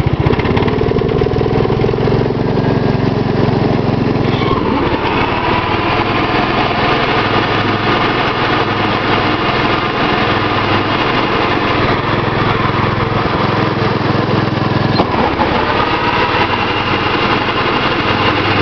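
Gravely 810 walk-behind tractor running on its 10-horse cast-iron Kohler single with the mower deck engaged, really noisy. About four and a half seconds in, and again about fifteen seconds in, the sound changes and a whine rises in pitch. The deck is noisy because its bearings need replacing.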